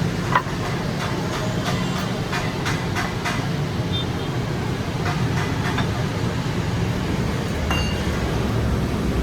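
Steady machinery hum with a run of sharp clicks and knocks in the first few seconds and a few more later, typical of tyre-factory machinery and metal parts being handled.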